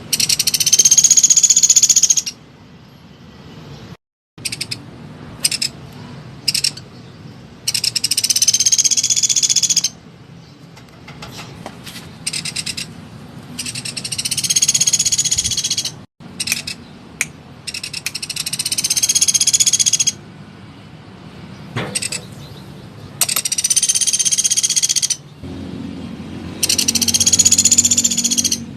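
A small woodpecker (pelatuk) calling in six loud, very fast trills of about two seconds each, every trill swelling slightly in pitch and then dropping, with short sharp call notes between them.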